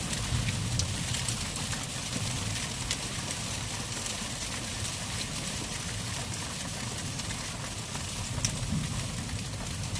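Hail falling: a steady hiss of hail and rain on the ground and roofs, with scattered sharp ticks of single hailstones striking, over a low rumble.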